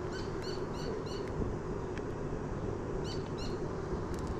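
A bird calling outdoors: a run of short, quick chirps, about three a second, in the first second, then two or three more about three seconds in, over steady low background noise.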